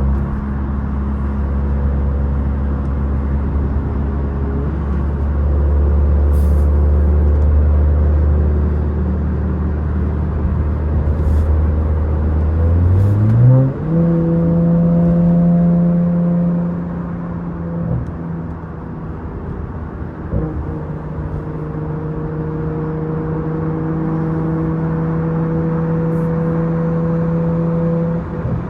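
Catless, straight-piped BMW B58 inline-six turbo engine of a 540i under way, its exhaust note steady and low for the first half, then rising sharply about halfway through and holding at a higher pitch.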